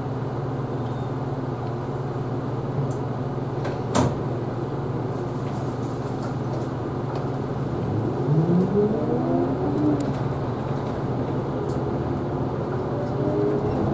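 Isuzu Erga Hybrid city bus heard from inside, its drivetrain running with a steady low hum and a single click about four seconds in. From about eight seconds a whine rises in pitch as the bus pulls away and gathers speed.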